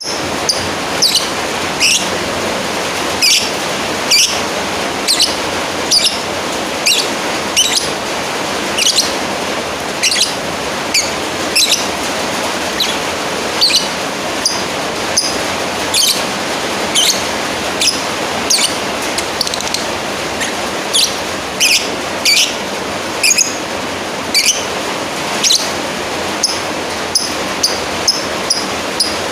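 Lovebird giving short, sharp, high-pitched chirps about once a second over a steady hiss: the bird calling out to a rival.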